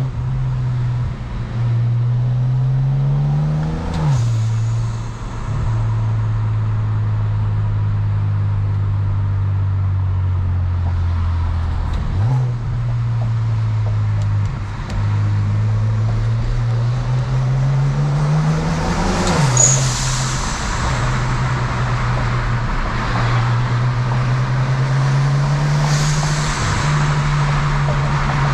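Turbocharged BMW 335 inline-six running through a custom exhaust with Vibrant resonators and Flowmaster mufflers, pulling through the gears: the engine note climbs steadily, then drops sharply at an upshift about 4 s in and again about 19 s in, with a steady stretch and a few brief dips in between.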